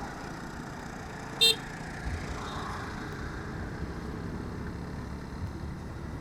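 Steady riding noise of a motorcycle on the road, engine and wind together, with one short horn toot about a second and a half in.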